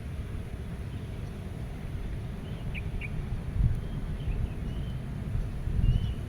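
Wind buffeting the microphone as an uneven low rumble, with a few faint, short bird chirps starting about halfway through.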